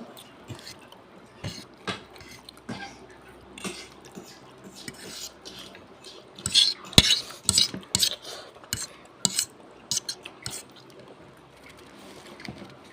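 Spoon and fork clicking and scraping against a plate while eating noodles, in scattered clinks that bunch together and grow loudest about halfway through, with one sharp knock.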